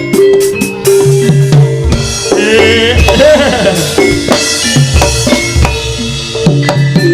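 Live music accompanying a Javanese jaranan (Turonggo horse-dance) troupe: a melody on gamelan-style metallophones over drums, with a run of heavy drum beats in the middle.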